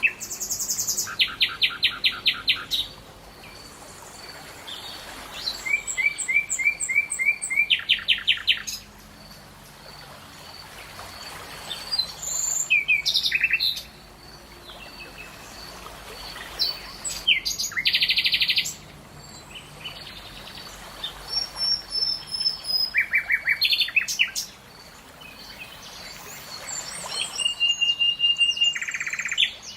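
Songbirds singing: phrases of fast repeated chirping notes, each lasting about two seconds, come every few seconds with short quiet gaps between them.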